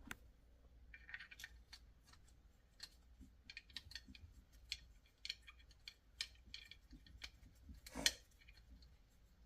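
Faint, scattered small metallic clicks and clinks of hand tools and engine parts being handled, with one louder knock about eight seconds in.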